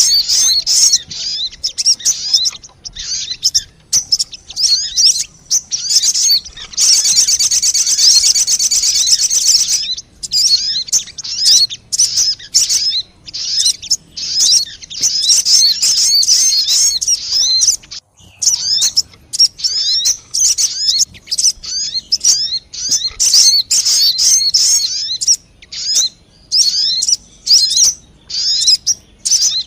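Lure-call recording of the bird known in Indonesia as burung sogon: a fast, unbroken run of high, sharp chirps and short trills, with one dense, buzzy trill lasting about three seconds, starting about seven seconds in.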